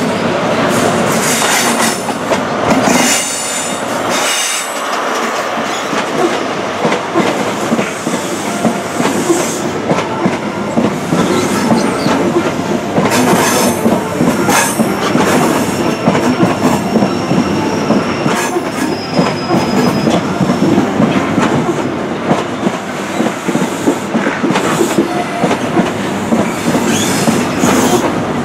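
A First Great Western HST (InterCity 125) passing close by on a curve, its Mark 3 coaches rolling past with repeated clacks from the wheels over the rail joints. A thin high wheel squeal comes in about halfway through.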